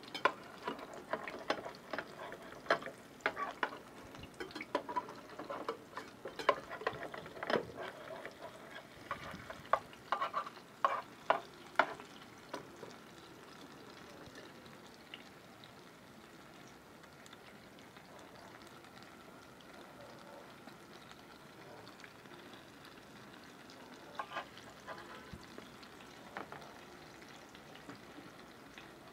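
Egg omelette frying in hot oil in a metal pan, with a steady sizzle. For the first twelve seconds or so a run of sharp clicks and scrapes comes from a slotted metal spatula working the egg against the pan to keep it from sticking, with a few more clicks near the end.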